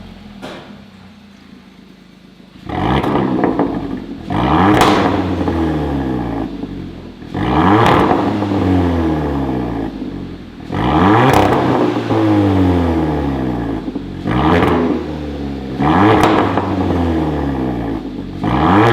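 Hyundai Veloster 1.6 turbo four-cylinder idling through an aftermarket mid pipe and variable-valve end exhaust, then revved repeatedly. Each rev rises quickly and falls back to idle, at intervals of about one to three seconds.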